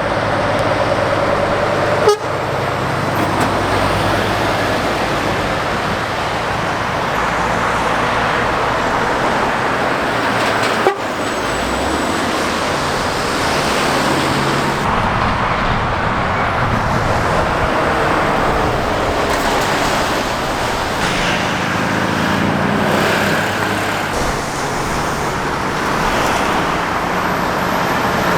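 Steady traffic on a busy main road: lorries and cars passing close, with engine and tyre noise rising and falling as each goes by. There are two sharp clicks, about two seconds in and about eleven seconds in.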